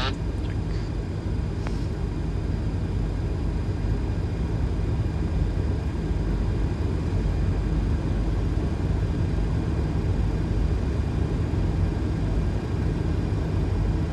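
Steady cockpit noise of a Boeing 737 on final approach with landing gear down and flaps at 30: an even rush of airflow over the airframe with a low engine hum underneath.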